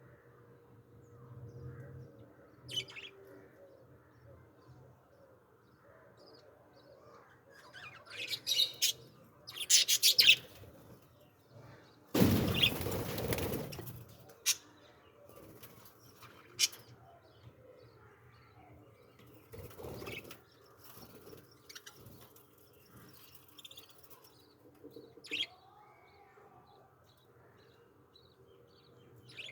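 Small birds chirping in short bursts, with wing flapping and a loud rustling burst lasting about two seconds, roughly midway through.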